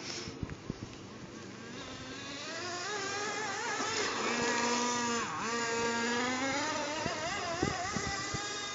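HPI T3.0 nitro engine in an RC stadium truck running under throttle, a high whine that grows louder, drops sharply in pitch for a moment about five seconds in, picks back up, then fades. A few light clicks sound near the start. The engine is freshly broken in.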